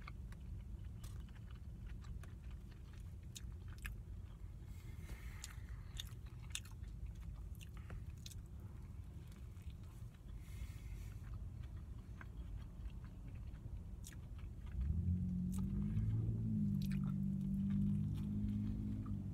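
Biting and chewing a Subway rib sandwich, with scattered soft crunches. A low droning hum starts suddenly about four seconds before the end and keeps going.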